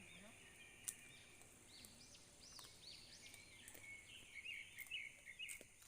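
Faint chirping of small birds: a quick series of rising-and-falling chirps, then a run of short twittering notes near the end, over a faint steady high hiss.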